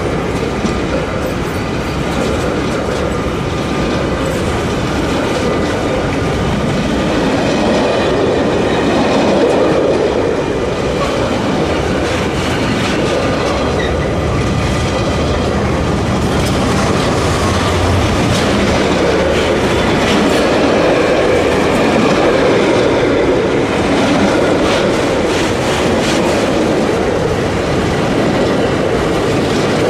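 Freight train of container wagons rolling past close by: a steady loud rumble of wheels on rail, with clicks and clatter as the wheels pass over the rail joints.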